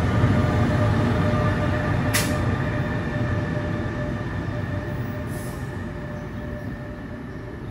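NJ Transit ALP-46 electric locomotive and its train of passenger coaches running past and moving away: a steady rumble of wheels with a steady whine over it, fading as the train recedes. A single sharp click comes about two seconds in.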